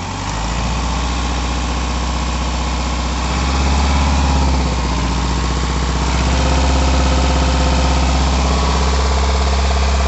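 Subaru EE20Z 2.0 flat-four turbodiesel revved from idle and held at about 2000 rpm, rising in steps about 3.5 and 6 seconds in. It is being tested for a knock that appears above 2000 rpm and when the clutch is pressed.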